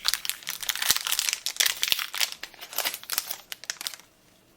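A trading-card booster pack's plastic wrapper being torn open and crinkled by hand, with dense crackling that stops about four seconds in.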